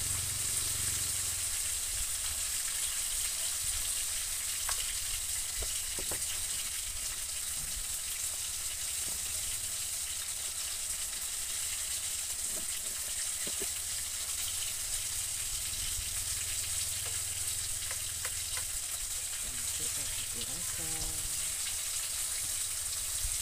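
Chilli sambal with anchovies frying in oil in a wok: steady sizzling, with a few light clicks scattered through it.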